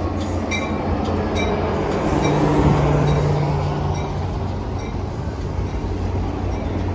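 Caltrain diesel-hauled commuter train moving through the station: a steady rumble of the passenger cars on the rails under a low engine drone, with a held tone rising out of it from about two seconds in to about four seconds.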